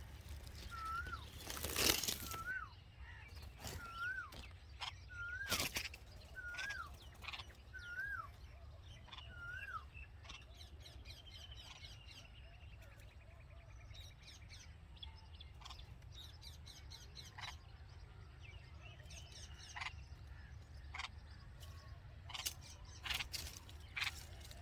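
Red-vented bulbul calling a short whistled note seven times, about once every second and a half, then falling quiet. Sharp clicks come throughout, with a louder burst about two seconds in, over a steady low hum.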